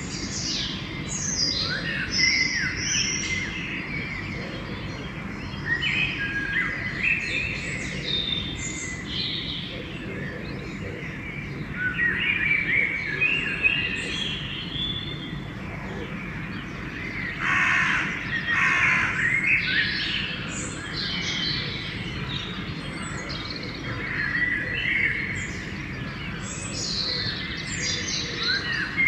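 Dawn chorus of several songbirds, with many overlapping chirps and whistled phrases and crows cawing among them, the crow calls densest about two-thirds of the way in. A steady low rumble runs underneath.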